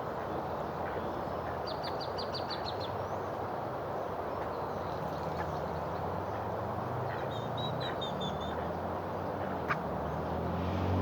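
A bird calling in two quick series of short, high repeated notes over a steady noisy background, with a single sharp click near the end.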